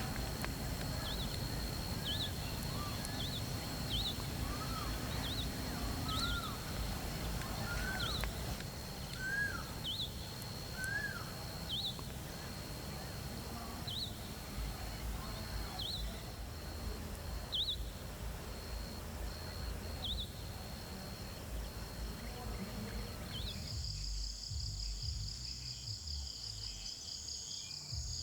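Bird calls: short, sharp high notes repeated about once every second or two, with lower upslurred whistles in the first half, over a steady high insect drone. About 24 seconds in, the sound cuts to a loud pulsing cricket trill.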